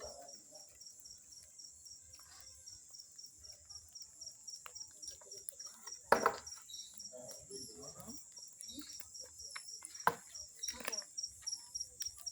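Crickets chirping in a steady, evenly pulsed high-pitched trill, with two sharp pops about six and ten seconds in.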